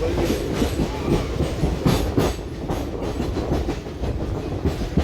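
Passenger train running along the track: a steady rumble with wheels clattering and knocking over the rail joints.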